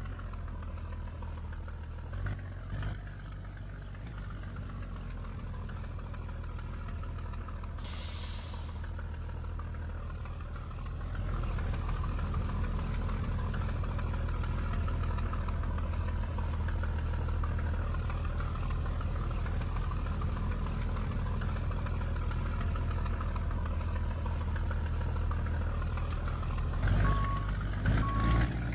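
Scania G124 truck's six-cylinder diesel engine running steadily, growing louder about eleven seconds in as it takes on more throttle. There is a short hiss of released air about eight seconds in, and a few knocks and a reversing alarm beeping start near the end.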